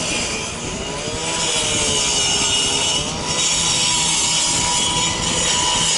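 Firefighters' high-powered circular saw cutting through a car's sheet-metal hood, its motor pitch wavering as the blade bites, over a loud, steady grinding hiss that eases briefly twice. The hood is being cut in half because the fire has melted its latch.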